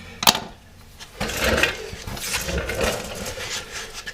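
A sharp metallic click, then about three seconds of irregular scraping and clinking as hand tools and brake caliper hardware are handled.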